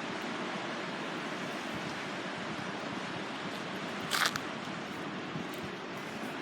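Steady rushing noise of sea surf on the shore, with one short sharp click about four seconds in.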